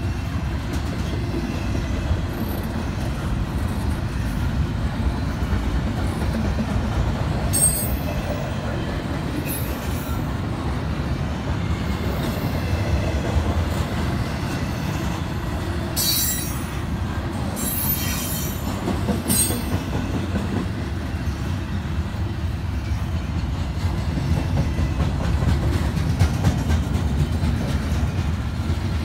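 CSX double-stack intermodal freight train rolling past: a steady low rumble of steel wheels on rail. Short high-pitched wheel squeals come a few times, most near the middle.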